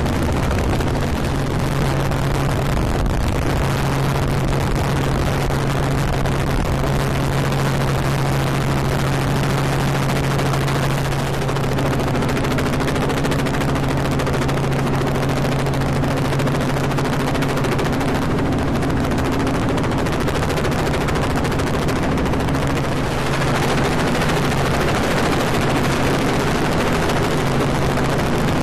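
Helicopter in flight, its engine and rotor making a loud, steady drone with a low hum and rapid rotor chop.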